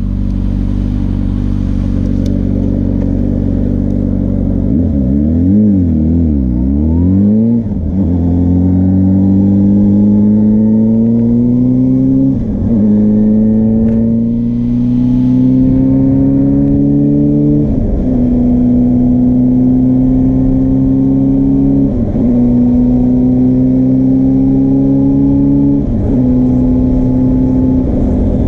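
Suzuki GSR400's four-cylinder engine through a Yoshimura Cyclone Tri-Oval exhaust: idling steadily, then blipped three times quickly, then pulling away and accelerating through the gears, the note climbing and dropping at each of about five upshifts.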